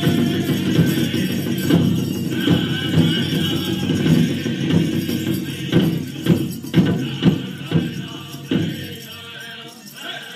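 Powwow drum group singing an honor song around a big drum, with many loud voices over the drumbeat. In the second half a few hard, separate drum strikes stand out, and the singing thins out near the end.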